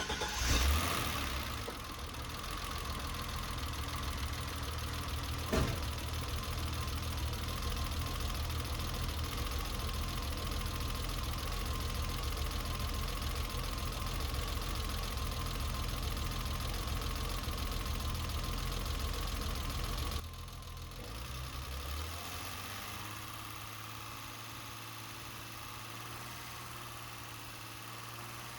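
BMW E30 engine idling after a start. It is running rich with a rough idle, the fault being diagnosed. About 20 seconds in, the sound drops to a quieter, steadier idle.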